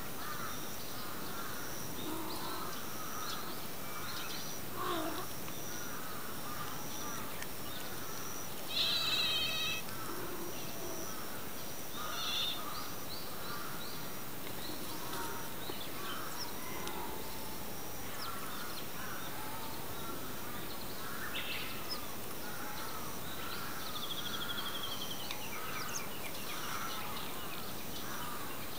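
Outdoor ambience: birds calling over a steady hiss, with a faint high chirp repeating about once a second, a louder call about nine seconds in and a trill near the end.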